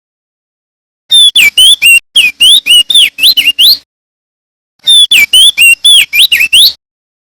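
Male crested dark-eye (opior jambul) singing: two loud, rapid phrases of quick sweeping whistled notes, the first starting about a second in and lasting over two seconds, the second shorter, with a brief pause between.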